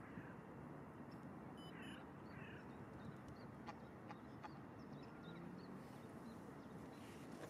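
Faint outdoor background with a few short, quiet bird calls, including two falling chirps about two seconds in.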